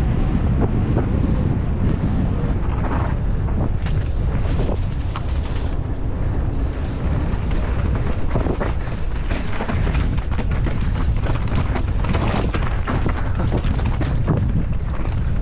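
Wind buffeting the onboard camera's microphone as a mountain bike descends at speed, with constant rattling and knocks from the bike over rough ground.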